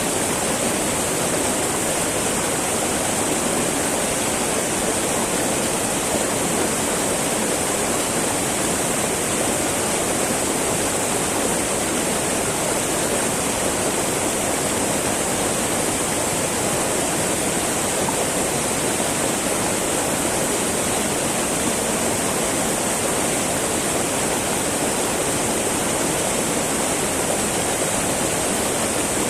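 A small mountain river flowing and babbling over rocks, a steady rush of water that does not change.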